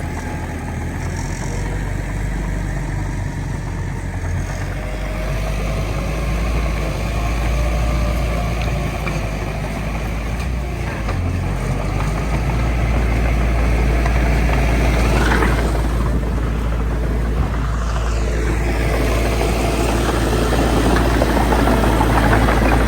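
Heavy diesel earthmoving machinery running with a steady low rumble, getting a little louder in the second half.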